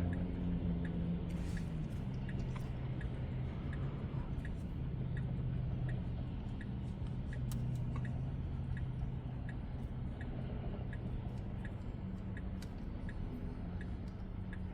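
Tesla Model X turn-signal indicator ticking evenly, a bit under two ticks a second, as the car waits to turn across oncoming traffic, over a steady low cabin hum.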